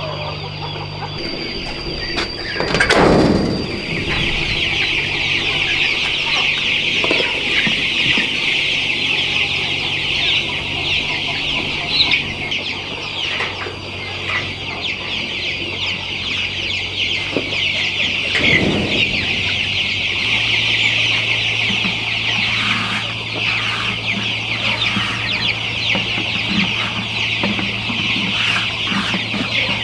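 A large flock of chickens calling all at once: a dense, continuous chorus of high overlapping calls. A steady low hum runs underneath, and a louder sweeping sound passes twice, about three seconds in and again around eighteen seconds.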